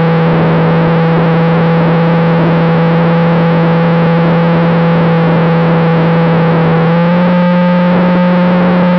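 Model aircraft motor running steadily, picked up by the onboard camera as a distorted hum over heavy wind hiss. The pitch rises slightly about seven seconds in, as with a small throttle increase, and settles back near the end.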